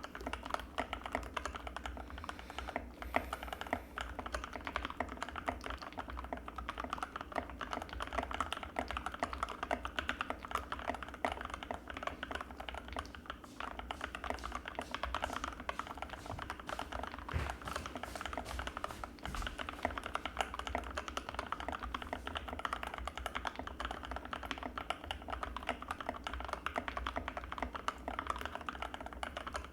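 Anne Pro 2 mechanical keyboard with Gateron Red linear switches being typed on fast and continuously, a steady stream of keystrokes with a creamy sound.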